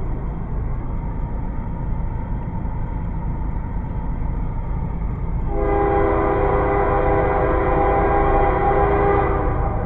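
Train passing with a steady low rumble; about halfway through, the locomotive's horn sounds one long chord for roughly four seconds, then stops.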